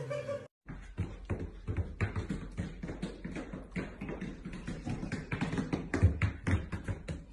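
A rapid, irregular run of taps and knocks, several a second, over a faint low hum, starting after a brief dropout to silence about half a second in.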